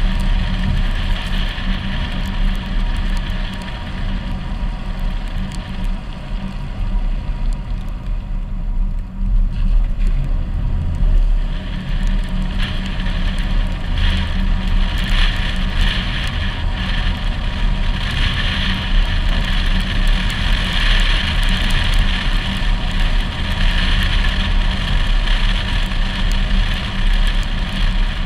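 A car driving, heard through a GoPro HERO4 on a suction-cup mount on the car: a steady heavy rumble of wind and road noise, with a hiss that grows louder about halfway through.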